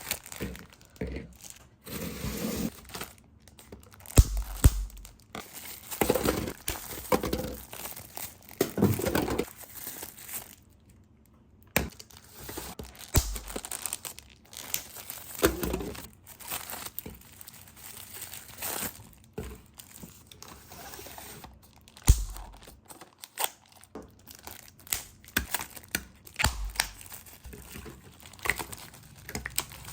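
Plastic bags and food packaging crinkling and rustling as groceries are handled and put away, with irregular clicks and knocks from containers being set down. Heavier thumps come four times.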